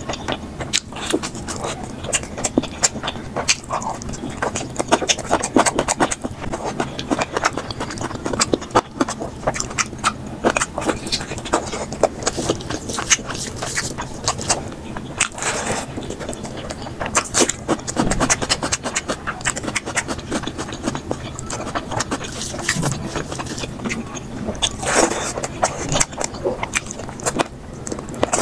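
Close-miked eating sounds sped up to double speed: rice and curry being mixed and scooped, with chewing and wet mouth clicks coming thick and fast, all at an even loudness.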